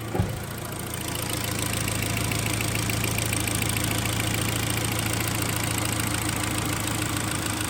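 Freshly overhauled Hyundai/Kia G4KD four-cylinder petrol engine idling steadily, heard without the lapel microphone, with a brief thump just after the start.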